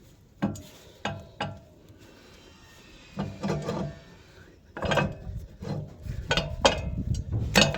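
Metal clinks and knocks with some scraping as a bolt is worked into the top of a fuel tank: three single clicks in the first second and a half, then two bursts of knocking and rubbing.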